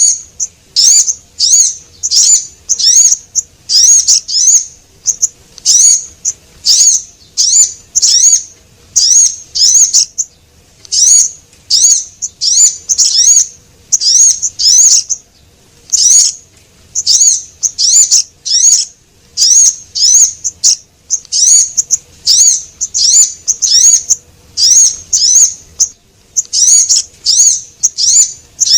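Recorded bird-lure calls of the sogon, a small songbird: short, high chirps that rise and fall, given in quick clusters of two or three, repeated over and over at about one to two clusters a second.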